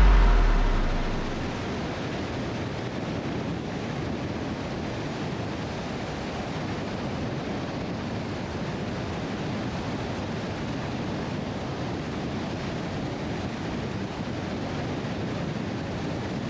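Steady rushing road and wind noise from a vehicle moving along the highway, as heard from inside the car, with the tail of music fading out at the start.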